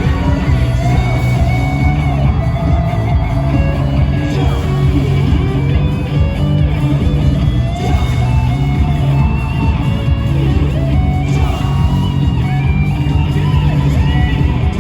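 Rock band playing live, with electric guitar over a full, steady drum-and-bass backing and little singing.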